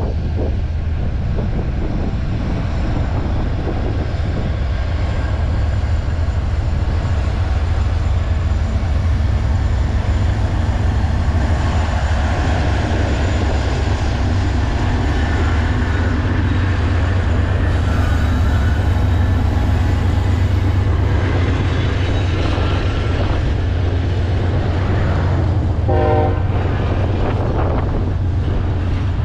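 CSX freight train rolling past, with a loud, steady rumble and clatter of the cars on the rails.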